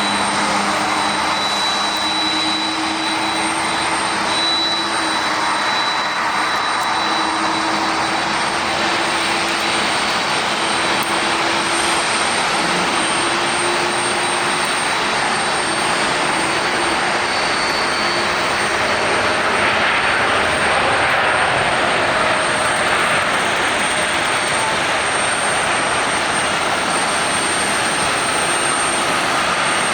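Jet airliner engines running loud and steady, a continuous roar with faint high whine tones above it.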